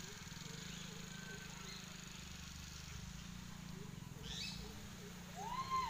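Birds calling over a steady low hum: a few faint chirps, a brief high call about four seconds in, then a clearer arched call that rises and falls near the end.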